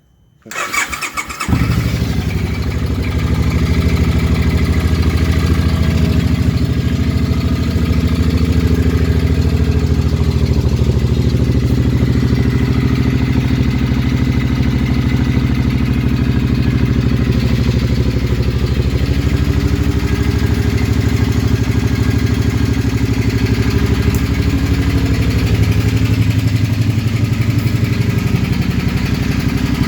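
2006 Suzuki Boulevard C50T's V-twin engine cold-started: a brief crank on the starter, catching about a second and a half in, then running at a steady idle.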